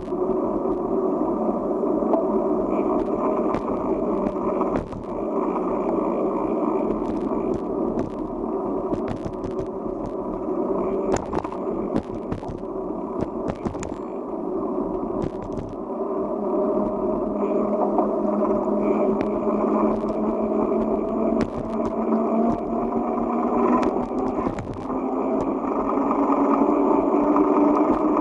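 Bicycle riding over a rough forest road: steady tyre rumble with scattered knocks and rattles. A whine rises steadily in pitch through the second half.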